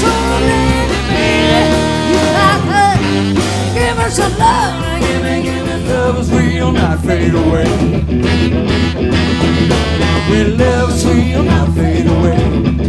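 Live band playing a blues-rock number: a lead line of bending, wavering notes over bass and drums, recorded on a single live track.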